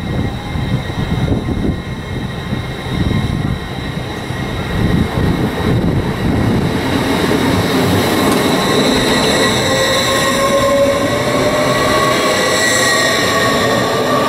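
Hull Trains Class 802 passenger train running in along the platform: a low uneven rumble of wheels on rail at first, then from about halfway a louder, steadier sound with a whine that slowly rises in pitch as the carriages pass close by.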